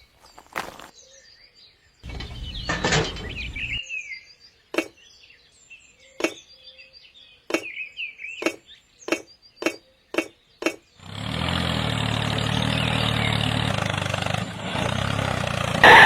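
Birds chirping, then a run of about a dozen sharp clicks roughly every half second, followed by a steady hum from about eleven seconds in.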